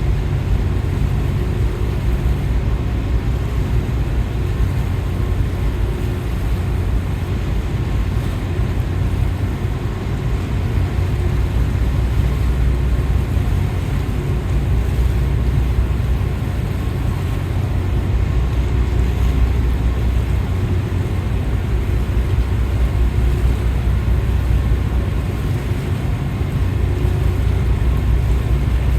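Steady low rumble of a large car ferry's engines and machinery running alongside the pier, with some wind noise.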